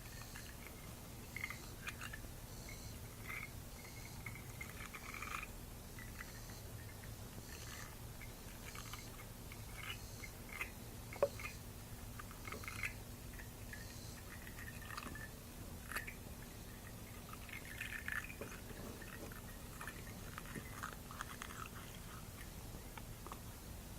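Small wire brush from a battery-terminal cleaner scrubbing a spark plug clean, in irregular short scratchy strokes over a faint steady hum. There is one sharper click about eleven seconds in.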